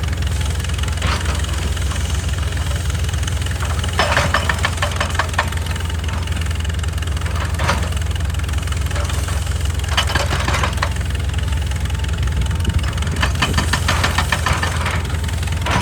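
Excavator's diesel engine running steadily, with short clattering, scraping bursts about every three seconds, typical of the bucket working against rock.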